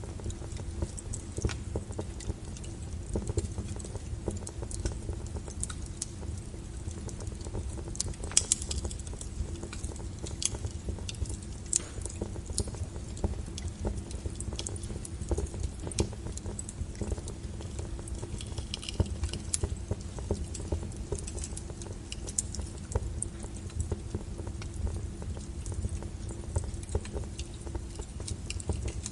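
Wood logs burning in a fireplace: irregular sharp crackles and pops from the fire over a steady low rumble.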